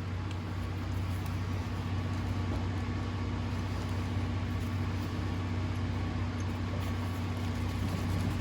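A steady low engine hum that holds the same pitch and level throughout.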